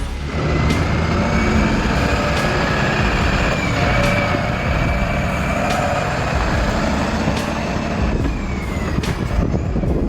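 Heavy truck engine running loudly and steadily, with a faint whine that slowly rises and falls.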